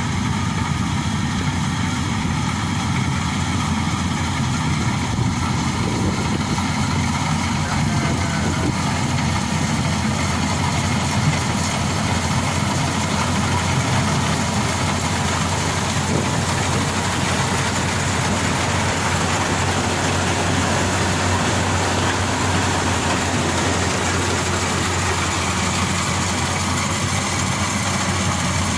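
Maxxi Bimo Xtreme combine harvester running steadily, its engine and machinery making a continuous, unchanging noise.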